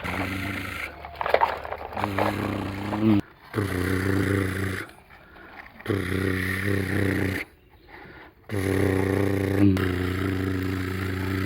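Tractor engine running at a steady low pitch, cutting off abruptly and resuming several times.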